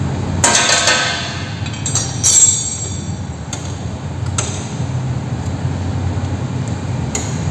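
Metallic clinks and knocks of steel spanners and motorcycle rear-brake parts being handled as the brake linkage is taken off. The loudest strike comes about half a second in and rings briefly, and a few lighter clinks follow over a low steady hum.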